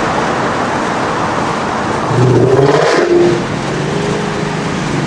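2024 Ford Mustang GT's 5.0 V8 with Kooks headers, exhaust in track mode, running loud on the road. About two seconds in it revs up for about a second, rising in pitch, then eases off.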